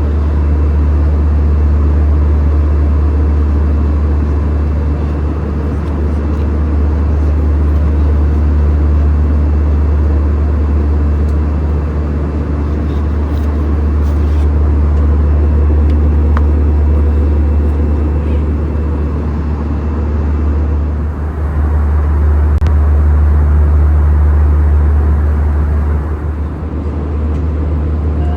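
Steady, loud cabin rumble inside an Airbus A320-214 airliner, a deep low drone with a hiss of airflow above it. It dips briefly twice near the end.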